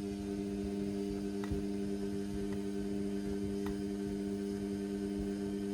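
Indesit washing machine running its synthetics wash, giving a steady electrical hum, with a few faint clicks.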